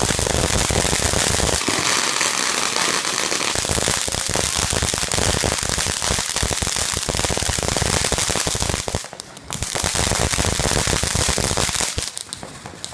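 Firework going off in a long, dense run of rapid crackling pops, breaking off briefly about nine seconds in, resuming, then thinning out near the end.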